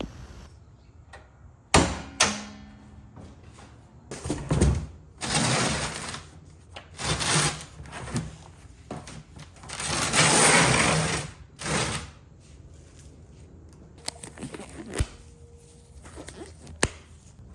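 Handling noises: several sharp knocks and clicks, with bursts of rustling or scraping between them, the longest near the middle.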